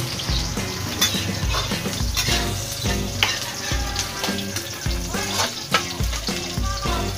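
Onions frying in oil in a steel wok, sizzling, while a metal utensil stirs and scrapes the pan with scattered clicks. Background music with a bass line plays underneath.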